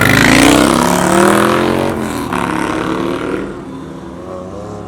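A car's engine accelerating hard, rising in pitch, with a brief break about two seconds in like a gear change. It then fades as the car moves away.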